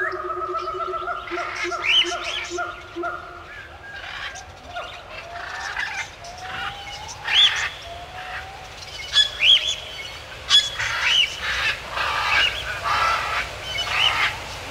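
Birds calling: a long, held, pitched call in the first three seconds or so, then short chirps that rise and fall, repeated irregularly.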